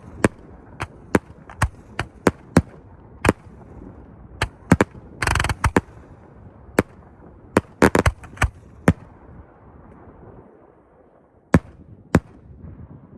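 Fireworks show going off: about twenty sharp bangs of bursting shells and cakes at irregular spacing, with a brief crackling burst about five seconds in and a quick cluster of reports near eight seconds. After a short lull, two more bangs come near the end.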